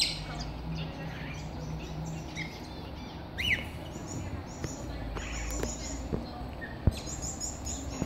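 Birds chirping, with short high calls scattered throughout and runs of quick chirps in the second half. A single sharp click comes about seven seconds in.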